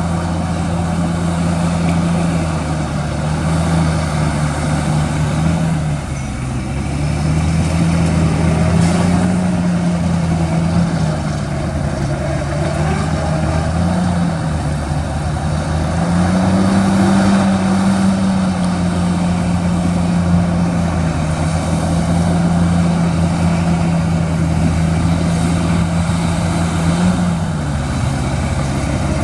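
Heavy diesel engine of earthmoving machinery running under changing load, its engine note stepping up and down several times, highest a little past the middle.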